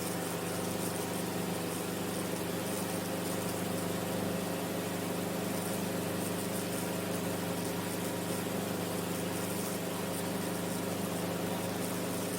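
Enstrom F28F helicopter in steady flight: its turbocharged four-cylinder Lycoming piston engine and rotors running as a constant, even drone with no change in pitch or level.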